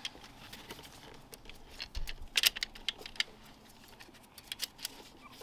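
Light metallic clicks and rattles of a timing chain being fed by hand over its sprockets and guides, with a quick cluster of clicks about two seconds in.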